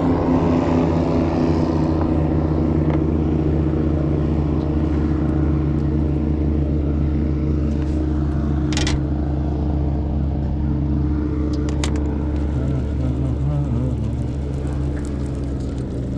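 Motorboat engine running steadily nearby, a low humming rumble that eases off a little near the end. Two short sharp knocks sound midway.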